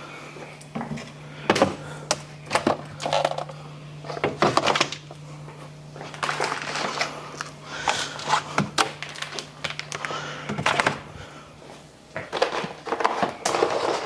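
Bottles and food containers being set onto fridge shelves: irregular knocks, clinks and clatters, over a low steady hum that cuts out near the end.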